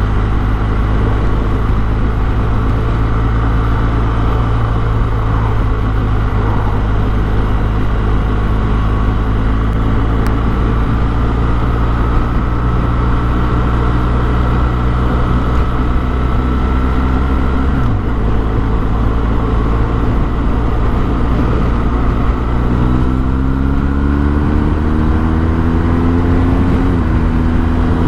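Motorcycle engine running at road speed, its pitch slowly climbing. It drops sharply about two-thirds of the way in, then climbs more steeply under acceleration before dropping again near the end, as with gear changes.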